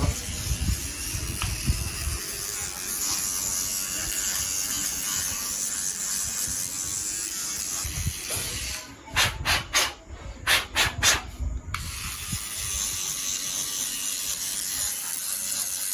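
Small vacuum cleaner running with a steady hiss as it sucks dust from a phone's earpiece grille. About nine seconds in, the sound breaks up into a few short pulses for roughly three seconds, then runs steady again.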